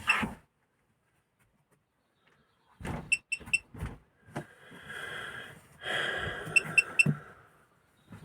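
Fridge control panel beeping: two quick sets of three short high beeps, about three seconds apart, with a stretch of hiss and rattle between and under the second set as the fridge is switched over to gas.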